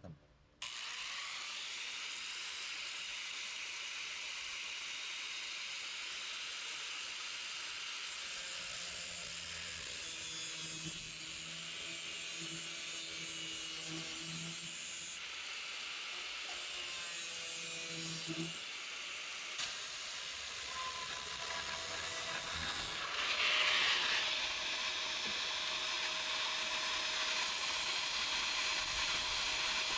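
A power tool cutting into the rusted sheet metal of the roof around the windshield. It starts about half a second in and runs steadily, with a hissing, high-pitched edge and a faint shifting whine partway through.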